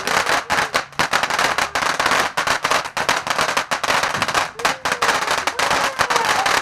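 Garden firework going off, giving a loud, continuous fizzing hiss with dense, rapid crackles.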